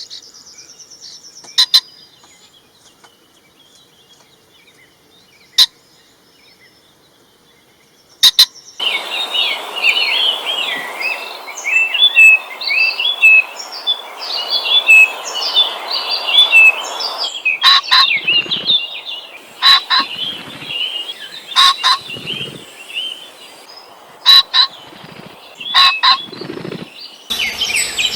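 Pheasants calling. After a few sharp clicks, a dense chorus of high chirps starts abruptly about nine seconds in, and from about halfway it gives way to loud, short, harsh calls repeated every second or two.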